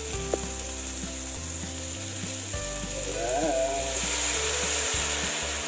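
Garlic, shallots, chilies and tomatoes sizzling in a hot steel wok; the sizzle swells about halfway through as fish sauce is poured in over them.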